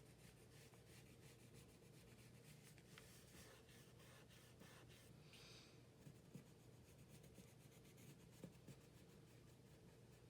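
Faint scratching and rubbing of a colored pencil on paper, blending colour in short strokes, with a couple of soft ticks.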